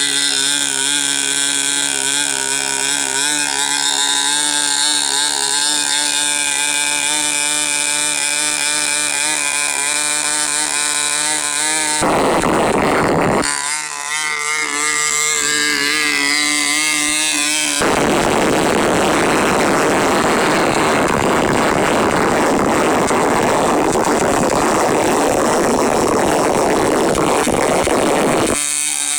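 Small model-airplane glow engine running on a test stand with its propeller spinning, a high buzzing note whose pitch wavers slightly. About 12 s in, and again from about 18 s to near the end, the clear buzz gives way to a harsher rushing noise.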